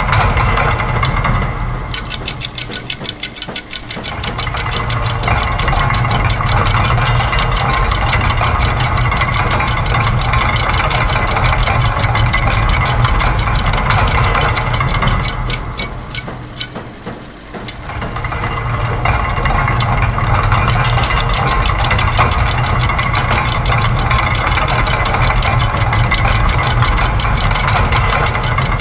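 Layered loops of factory machine sounds (gears, press, clockwork spring, ratchets, sewing machine) forming a dense mix of fast mechanical clicking over a low hum. The mix thins out and drops twice, about two to four seconds in and again around sixteen to seventeen seconds in, then builds back up.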